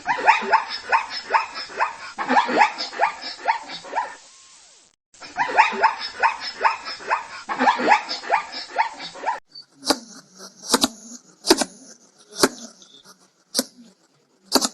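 A dog barking rapidly, several short barks a second, with a brief break about four and a half seconds in. After about nine seconds the barking stops and a different sound of separate sharp strokes follows, about one a second.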